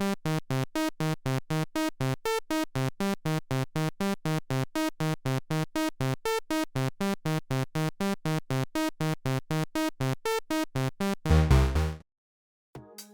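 Roland SE-02 analog monophonic synthesizer playing a factory preset as a fast sequenced bass line of short, even notes, about four a second, in a repeating pitch pattern. Near the end comes one louder low note, a brief silence, and then the next patch starts.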